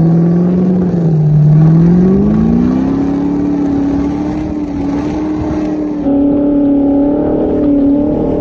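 Ford GT's supercharged V8 revving under power as the car slides through snow. The engine note climbs over a couple of seconds and then holds high, over a hiss of snow spray, and the sound shifts abruptly about six seconds in.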